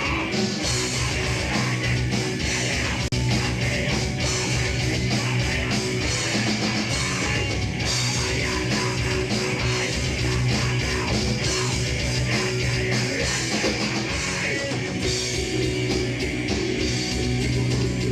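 A live rock band playing loudly, with electric guitar over a steady drum kit beat.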